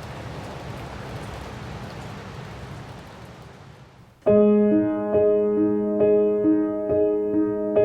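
Steady rain fading away over about four seconds, then a piano comes in suddenly, striking a repeated pattern of chords about twice a second as a song's intro.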